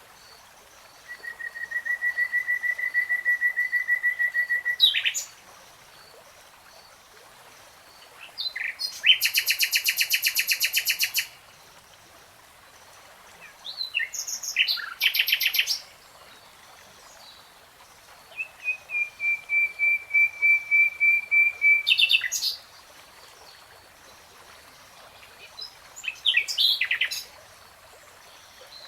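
Common nightingale singing in separate phrases with pauses of a few seconds between them. The phrases are long runs of fast repeated whistled notes that end in a sharp upward flick, a rapid buzzing rattle, and short varied flourishes.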